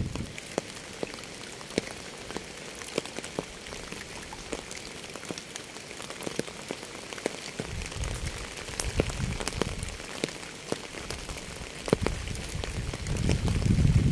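Steady rain with many distinct drops tapping sharply on a hard surface close by. Low rumbling swells rise under it about halfway through and again near the end.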